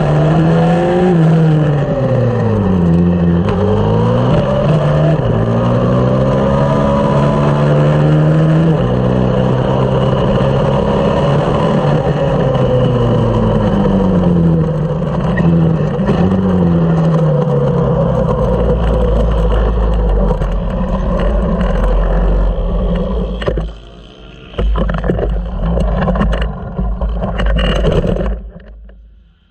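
A 140cc four-stroke single-cylinder minibike engine at race speed, its note rising and falling through the gears. About two-thirds of the way through the engine note dies away as the engine fails, leaving a low rumble that dips once and then cuts off near the end.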